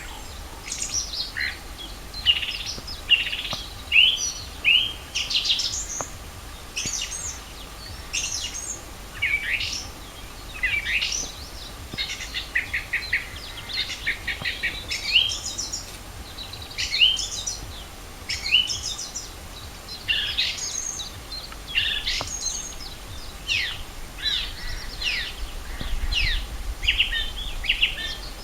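Songbirds in spring chorus: a dense, unbroken run of short chirps, trills and quick down-sweeping notes from several birds singing at once.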